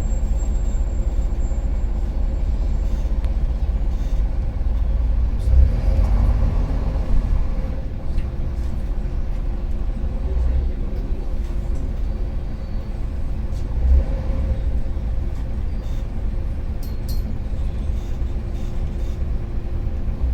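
Karsan Avancity+ articulated city bus engine running with a rattling (çatırtılı) sound and a heavy low rumble, swelling for a couple of seconds about six seconds in and briefly again near fourteen seconds.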